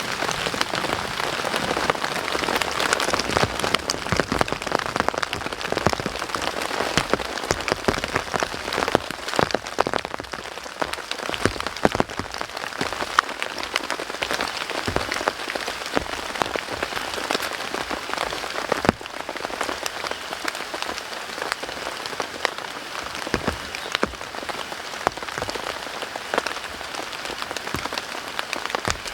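Rain falling steadily, a dense patter of many sharp drop hits over a constant hiss; it eases a little about two-thirds of the way through.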